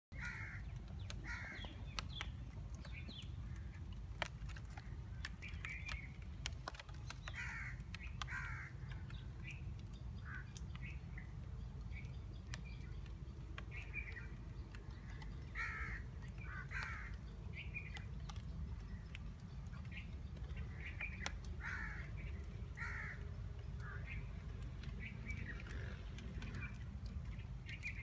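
Birds calling outdoors: short, harsh calls repeated irregularly, often two or three close together, over a steady low rumble, with a few faint ticks scattered through.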